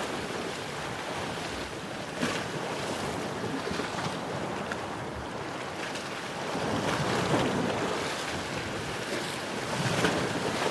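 Rushing wash of waves with wind, swelling around the middle and again near the end, with one brief knock about two seconds in.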